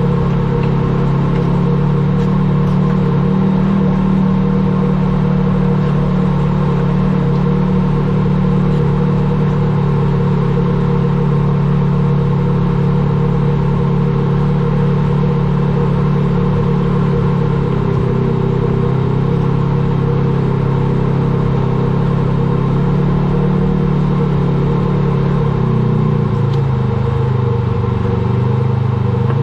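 A vehicle's engine running steadily with a low rumble, its pitch wavering a little near the end.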